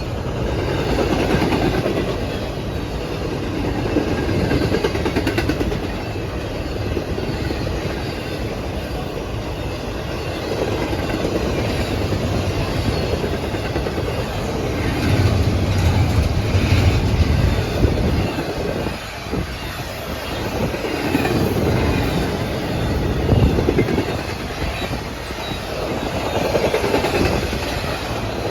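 Freight train rolling past at track side, its wheels clattering over the rail joints in a continuous rumble that swells and eases as the cars go by.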